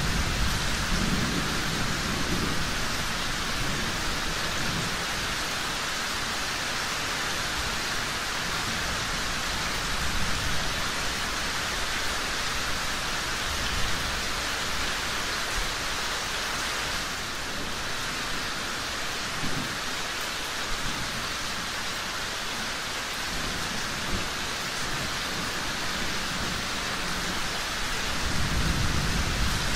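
Steady rain falling. Deep low rumbles swell at the start, about two-thirds of the way in and again near the end.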